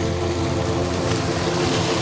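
Gentle relaxation music of long held chords, mixed with the steady wash of ocean surf.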